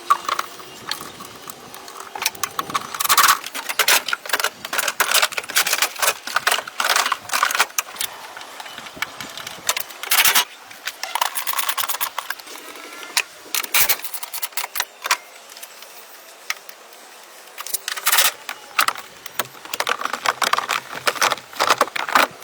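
Irregular clinks, clicks and rattles of small hard objects being handled, coming in clusters with a quieter spell about two-thirds of the way through.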